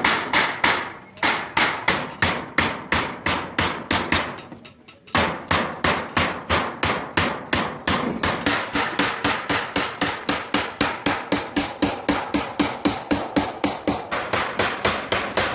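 Hand hammer striking repeatedly in a steady rhythm during truck bodywork, about three blows a second at first, then a brief pause about four and a half seconds in, followed by a faster run of about four blows a second.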